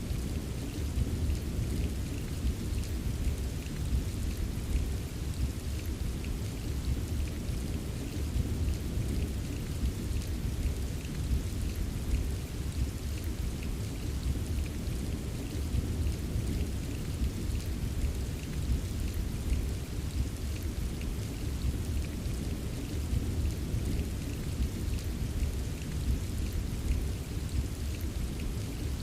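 Steady rain ambience: continuous rainfall with a constant low rumble underneath and faint scattered ticks of drops, unchanging throughout.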